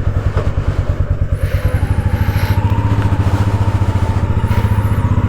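Royal Enfield Meteor 350's single-cylinder engine running with a rapid, even thump. A faint steady whine joins about two seconds in.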